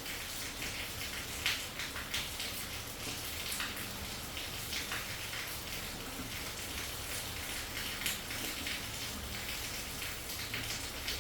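Rain falling steadily, with scattered louder drops hitting a surface.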